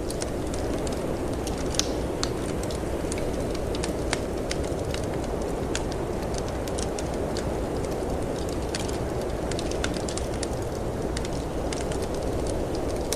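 Wood fire crackling in a fireplace, with frequent small irregular pops and snaps, over a steady low rumble of storm wind.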